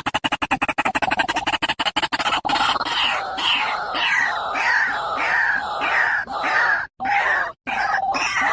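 White-breasted waterhen calling: a fast run of rapid pulsed notes, then from about two and a half seconds in a string of repeated rising-and-falling 'ruak' notes, about two a second, broken by short pauses near the end.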